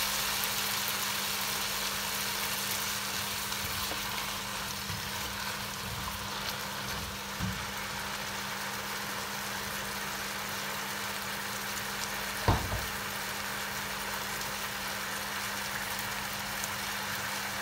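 Diced potatoes, carrots and chicken sausage sizzling in a pot, a steady hiss over a steady low hum. A single sharp knock about twelve seconds in.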